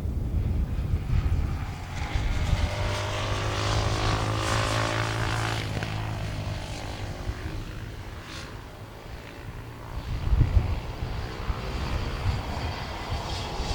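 Aircraft passing close by: its engine noise swells about two seconds in, with tones sweeping across it as it goes past, then fades away. Wind buffets the microphone about ten seconds in.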